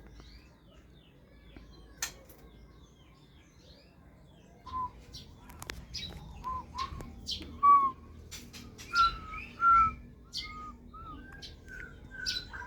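White-rumped shama calling: faint chirps at first, then from about five seconds in a run of louder short whistled notes broken by sharp clicks.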